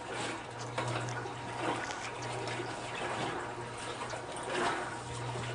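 Water sloshing and splashing in the tub of an old Kenmore wringer washing machine, over a steady low hum.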